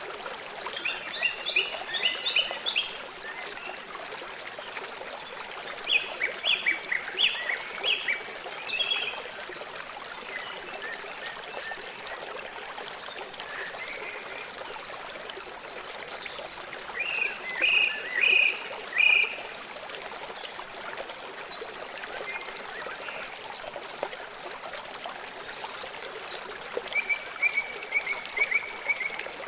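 A forest stream running steadily, with a bird singing short bursts of quick, repeated chirping notes four times.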